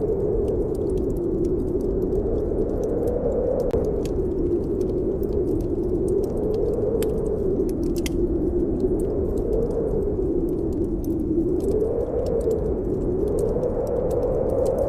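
Snowstorm wind howling steadily, its pitch slowly rising and falling every few seconds, with a wood fire crackling and popping in scattered sharp clicks.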